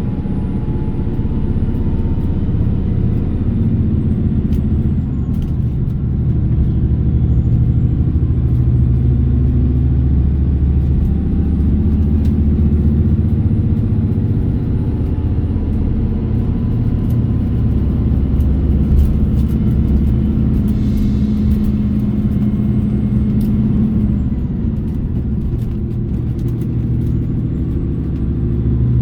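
KiHa 281 series diesel railcar running at speed, heard on board: a steady rumble of wheels on rail under the diesel engine's hum, which strengthens and shifts in pitch in the middle of the stretch and eases off near the end.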